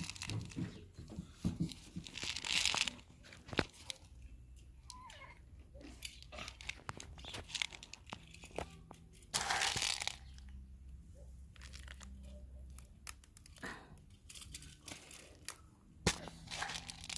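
Crinkling and rustling of packaging, with scattered small clicks and two longer hissing rustles about two and a half and nine and a half seconds in, as controlled-release plant food is handled and measured out.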